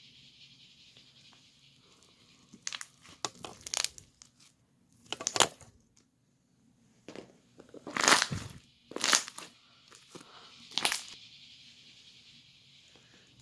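Irregular short crinkling and tearing noises, several bursts spread through the middle, the loudest cluster about eight seconds in.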